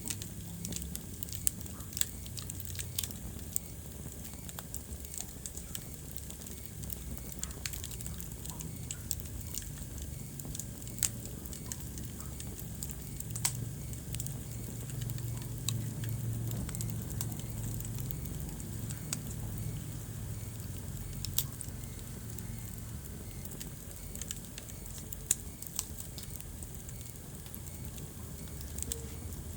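Wood fire crackling in a fireplace: scattered sharp pops and snaps over a steady low rumble of burning flames.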